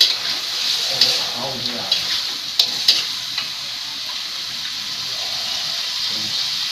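Meat in spice paste sizzling steadily in a wok on a gas stove, with a spoon clicking against the pan a few times in the first three seconds.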